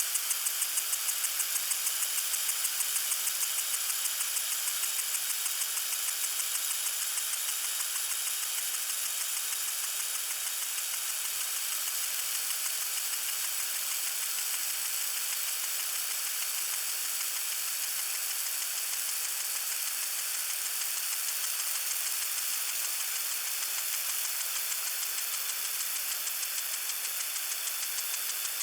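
Lawn sprinkler spraying water: a steady hiss with a fast, even pulsing rhythm running through it.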